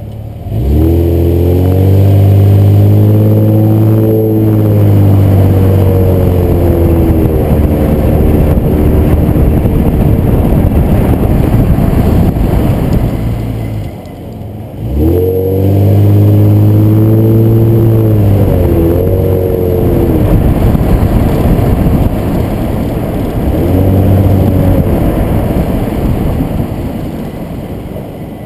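2007 Nissan Maxima's 3.5-litre V6 accelerating hard, its pitch climbing quickly and then holding before easing off. It pulls again about fifteen seconds in, and there is a shorter pull near the end. No brake squeal is heard in the slow-downs between pulls, so the Wilwood BP-10 pads under test are staying quiet.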